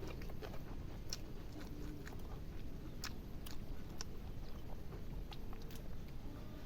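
A person chewing and biting food close to the microphone, with scattered short mouth clicks.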